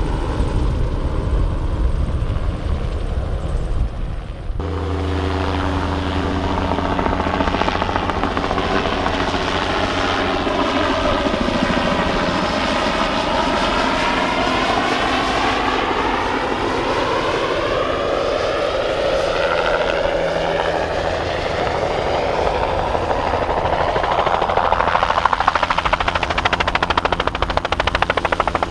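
Bell 206B-3 JetRanger III helicopter flying low on spraying passes: steady rotor beat and turbine whine. The sound changes abruptly about four seconds in, then sweeps in tone as the helicopter passes and grows louder near the end.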